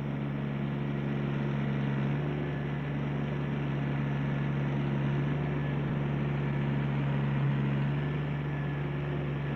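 Ford compact tractor's three-cylinder diesel engine running steadily at an even speed, a constant low drone.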